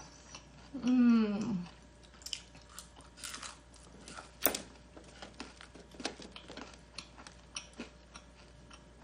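Close-up chewing and crunching of crispy Korean spicy garlic fried chicken: a string of crisp crunches and mouth clicks, with a short hum of the voice about a second in.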